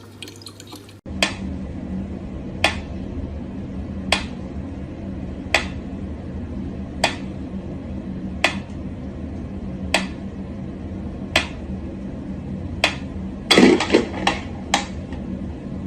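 Sharp clicks repeating evenly, about one every second and a half, over a steady low hum, then a quick flurry of louder clicks near the end.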